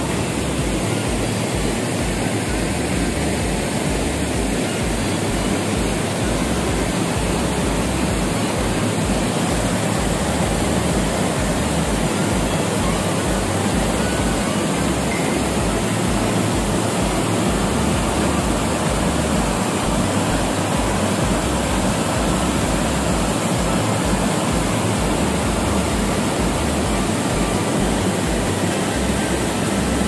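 Small waterfall cascading over sandstone ledges into a frothing pool: a steady, even rushing of water.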